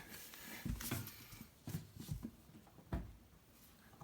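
Handling noise: about five dull knocks and bumps over three seconds, with light rustling at the start.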